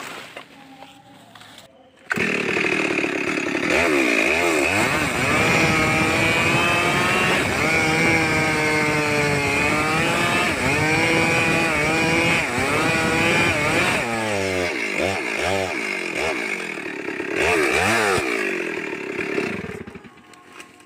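Two-stroke chainsaw running at high speed while cutting timber, starting abruptly about two seconds in; its engine note keeps dipping and climbing as the chain bites and frees in the wood, and it drops away a second before the end.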